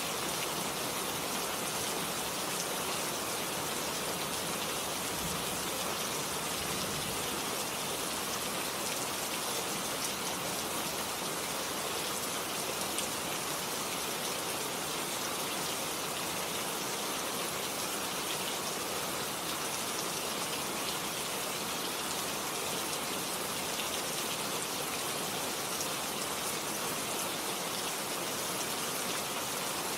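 Steady rain falling on a garden, an even, unbroken hiss of drops.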